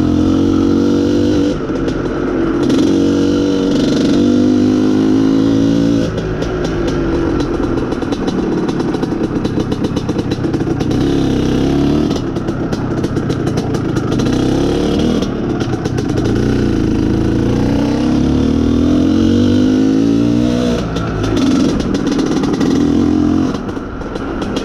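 IZh Planeta Sport's single-cylinder two-stroke engine under way, its pitch climbing through the revs and dropping back several times as the motorcycle accelerates and shifts, with wind noise over it. The engine is running on a mixture that the rider calls very lean.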